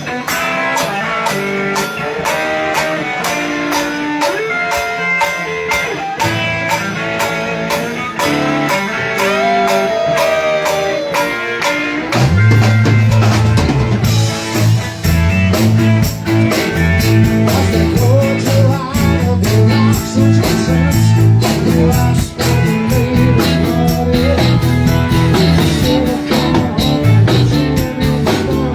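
Band music with guitar and drums, a blues-rock instrumental passage. About twelve seconds in, a heavy bass line joins and the music grows fuller and louder.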